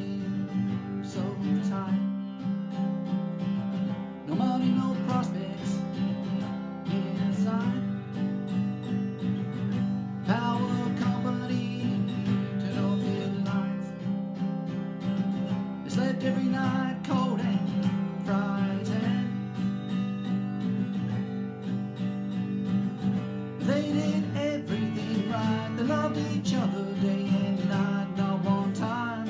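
Acoustic guitar playing an instrumental passage of a song, strummed and picked chords with a melody line over them.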